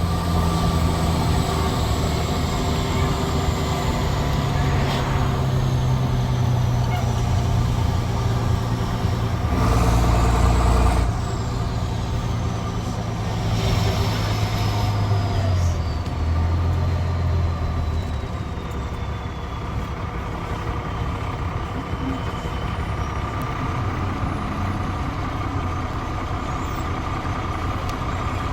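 Straight-piped Cummins C8.3 diesel of a 1995 Carpenter school bus running under way, its exhaust note stepping in pitch a couple of times as the Allison automatic shifts. A faint high whistle falls slowly in pitch through the middle.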